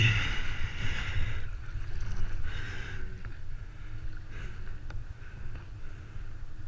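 Kayak paddle strokes splashing in the sea every second or two, over a steady low rumble.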